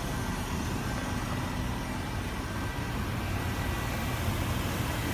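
2015 Range Rover Supercharged's 5.0-litre supercharged V8 idling steadily.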